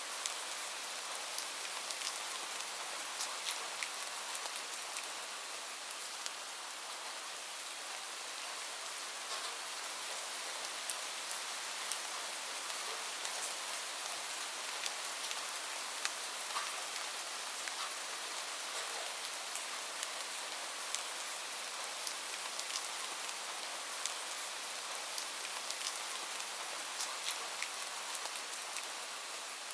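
Steady rain falling on a surface, an even hiss with frequent individual drops tapping and clicking through it.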